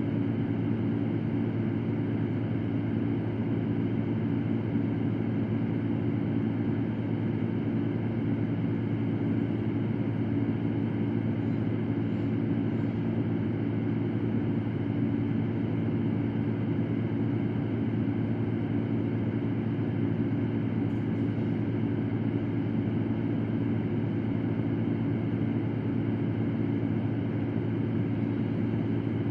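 Electric fan running steadily: a constant rush of air over a low, even motor hum, with no change in speed.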